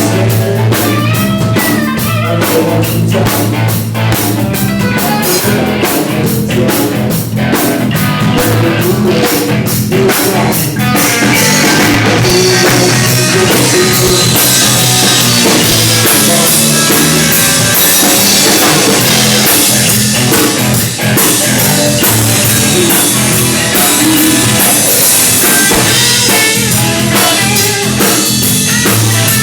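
Rock and roll band playing a loud, steady number on drum kit and guitar.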